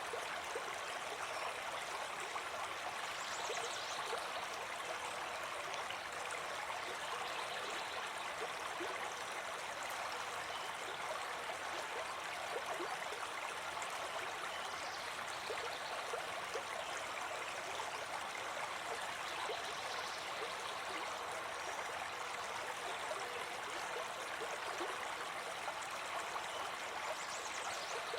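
A brook babbling steadily, a continuous rush and gurgle of flowing water with no let-up.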